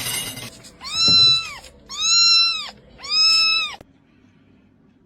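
A domestic cat meowing three times, each meow under a second long and rising then falling in pitch, the last one cut off abruptly.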